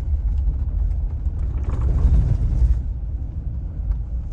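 Road noise of a car being driven, heard inside the cabin: a steady low rumble that swells a little about two seconds in.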